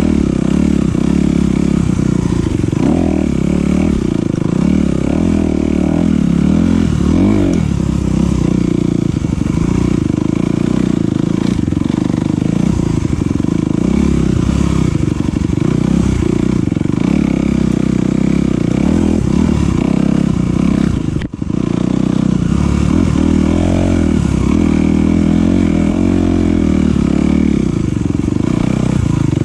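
Off-road enduro motorcycle engine running under way, its pitch rising and falling as the throttle opens and closes. About two-thirds of the way through, the sound drops out for a moment.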